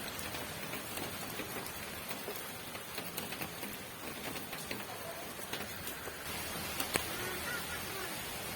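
Steady rain falling, with many individual drops tapping distinctly over the hiss and one sharper drop hit about seven seconds in.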